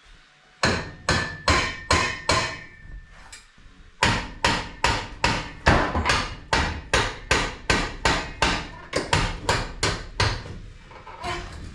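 Hammer blows on a steel exhaust pipe, driving one pipe section over another, with a slight metallic ring. About six strikes come at roughly two a second, then a short pause, then a long run of about twenty strikes that quickens toward the end.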